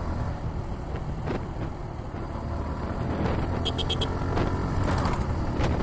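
Suzuki Gixxer 150's single-cylinder engine running under the rider as he accelerates and eases off on an open road, the engine note slowly building in loudness. A quick burst of high-pitched pips cuts in briefly about two-thirds of the way through.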